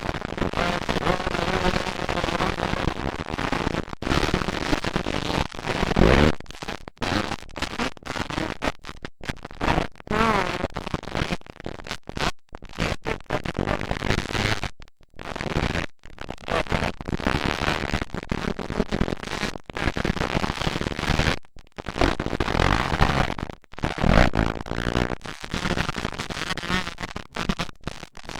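Motocross dirt bike engines revving and running, harsh and distorted through a camcorder microphone, with the sound cutting out in many brief dropouts.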